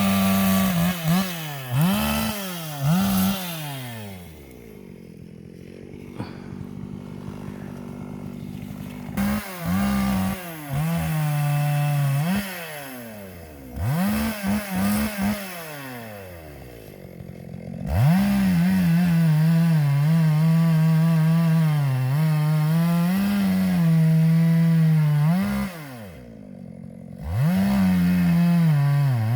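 Zenoah two-stroke chainsaw revving up and down in quick bursts, dropping back to idle between them. In the second half it is held at high revs for about eight seconds while cutting wood.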